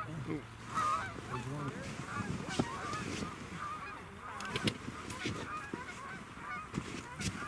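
Goose honking: many short, overlapping honks in a continuous chorus.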